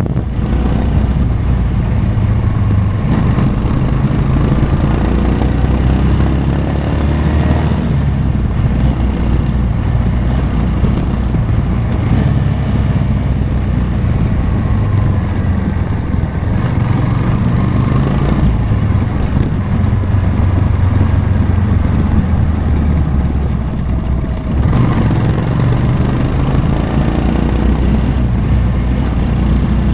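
Motorcycle engine running on the move, its pitch rising and falling with changes of throttle, over a steady hiss of wind and road noise.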